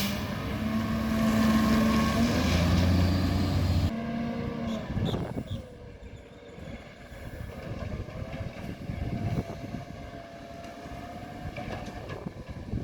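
Garbage truck engine running, loud for the first four seconds, then suddenly fainter.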